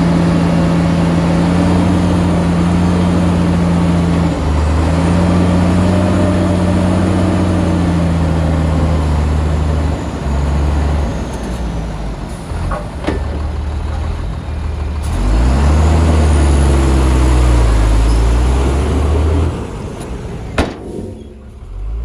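Shantui bulldozer's diesel engine working under load, its pitch sagging about ten seconds in, climbing and holding high again, then easing off near the end, where a single sharp clank is heard.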